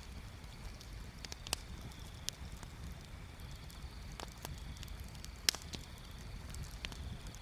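Bonfire crackling, with scattered sharp pops of burning wood. The loudest pop comes about five and a half seconds in, over a steady low rumble.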